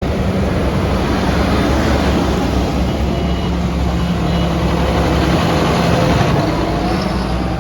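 Tractor engines running loudly and steadily.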